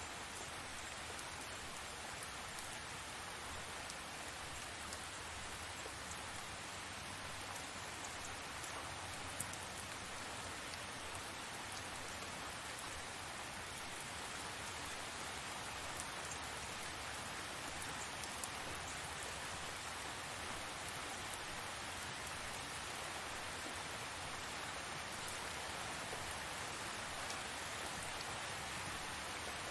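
Steady rain falling: an even hiss with scattered sharp ticks of single drops striking.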